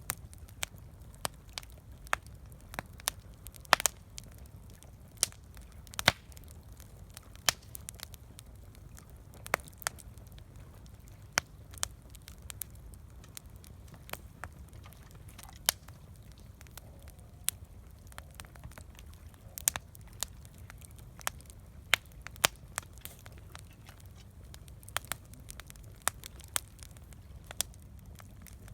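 Campfire crackling: wood burning with irregular sharp pops and snaps, a few a second and some much louder, over a steady low rumble.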